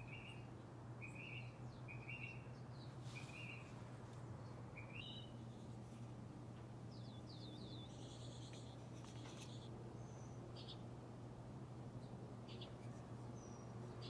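Wild birds calling: short high chirps about once a second for the first few seconds, then a quick run of falling notes and a few scattered higher chirps. A steady low hum runs underneath.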